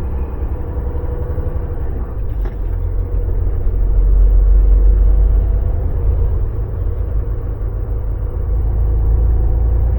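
Volvo VNL semi truck's diesel engine running with a deep, steady rumble that swells about four seconds in, with a brief click about two and a half seconds in.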